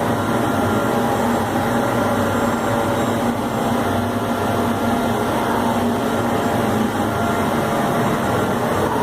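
PrimaLinea Laser 1310 CO2 laser cutting machine running during a cut, giving a steady, even machine drone with faint steady tones and no breaks.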